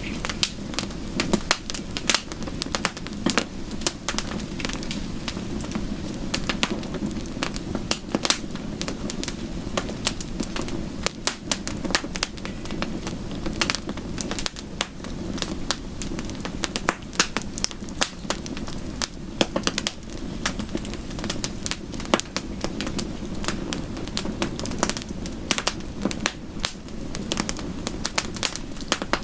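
Wood fire crackling in a fireplace, with frequent irregular pops and snaps over a steady low rush, mixed with soft rain.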